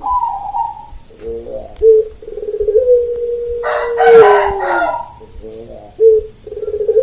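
Zebra doves (perkutut) cooing in short phrases, with a rooster crowing once about four seconds in. Under them runs a long held wailing note that falls in pitch at its end.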